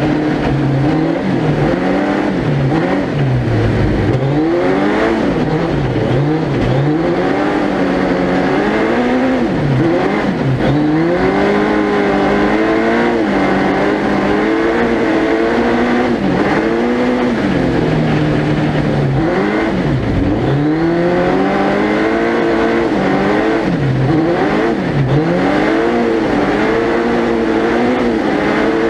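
Suzuki Hayabusa 1300cc motorcycle engine in a 4WD ice-racing prototype, revving hard and changing pitch constantly: rising through the revs, then dropping sharply on lifts and downshifts, many times over as it laps the circuit.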